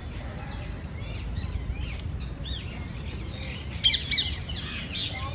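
Several birds chirping and calling in short, rising and falling notes, with a louder pair of sharp calls about four seconds in, over a steady low rumble.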